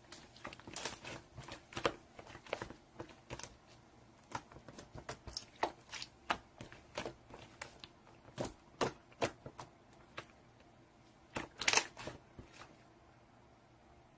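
Slime being squeezed and poked by hand, giving a run of irregular sticky pops and crackles. The loudest cluster comes near the end, before they stop.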